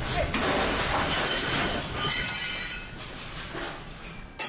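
Glass and crockery crashing and clattering, loudest for the first few seconds and then dying down; the sound cuts off suddenly near the end.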